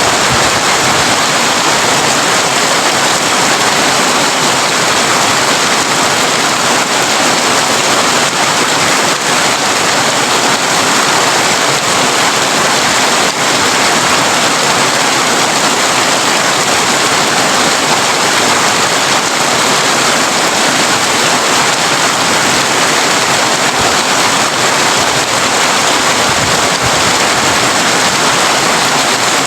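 Heavy rain falling on a tin roof, a steady, dense hiss of drops with no let-up.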